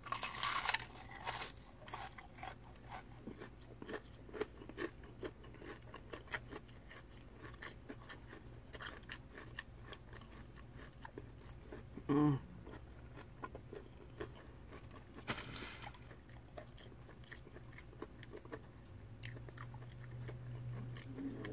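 Crispy fried catfish being bitten and chewed: a loud crunchy bite at the start, then many small crunches through steady chewing. One short, louder hum-like sound about twelve seconds in.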